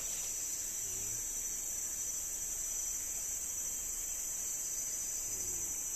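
Steady high-pitched drone of a forest insect chorus, unbroken throughout.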